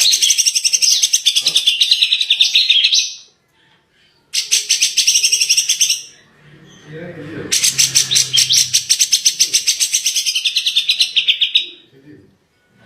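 A songbird singing rapid runs of quickly repeated high chattering notes in three bursts separated by short pauses. The last burst is the longest, about four seconds.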